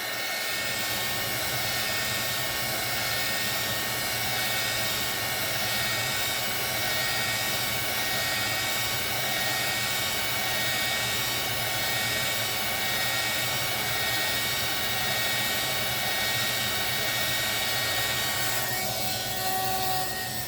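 Embossing heat gun running steadily, its fan blowing a constant rush of hot air with a faint whine, drying alcohol ink on photo paper. The tone of the air changes slightly near the end.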